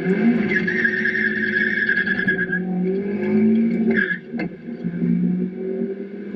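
Mazda Miata's four-cylinder engine heard from the open cockpit as the car accelerates: the engine note climbs steadily, dips with a short click about four seconds in as the driver shifts up, then climbs again.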